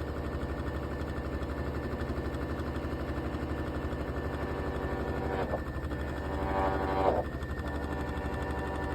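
Hitachi BD-V9400 drum washing machine on its spin cycle, making a fast, steady rattling over the motor's hum, with a brief louder rising-and-falling whine about two-thirds through. The rattle is an abnormal noise that the owner puts down to a face mask's nose wire caught in the drum.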